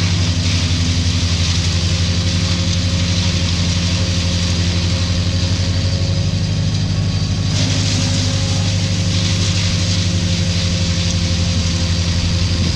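A large engine running steadily at a constant speed, with a hiss over it that swells near the start and again about halfway through.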